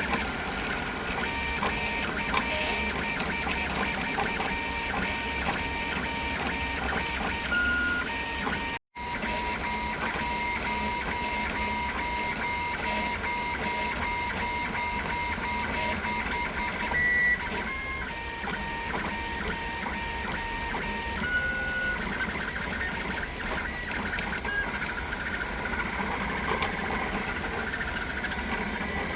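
3D printer running, its stepper motors whining at a few steady pitches that switch as the print head changes moves. The sound cuts out completely for an instant about nine seconds in.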